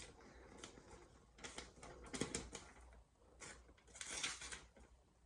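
Freshly sharpened VG10 santoku knife slicing through a sheet of paper, a few short crisp cutting and rustling sounds as an edge-sharpness test.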